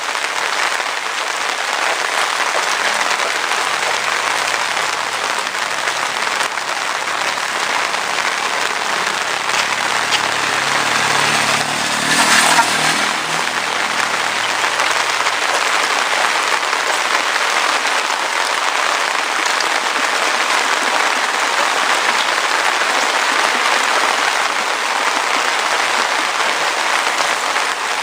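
Heavy rain falling steadily. A motor vehicle's engine approaches and passes through the rain, loudest about twelve seconds in, then fades.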